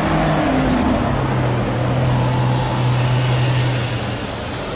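Maserati GranCabrio's V8 engine running as the car drives past and away at low speed. About a second in its pitch drops, then it holds a steady note that fades a little near the end.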